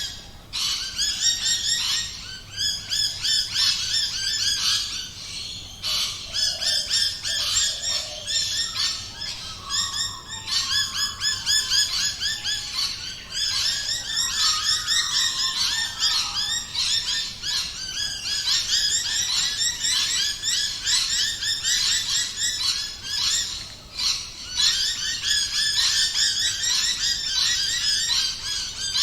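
A dense chorus of many small birds chirping rapidly and continuously, with a few brief lulls.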